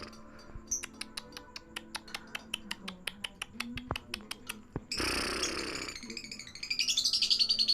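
Lovebird chattering: a run of rapid, evenly spaced ticks, a short harsh screech about five seconds in, then a loud, fast, high trill near the end.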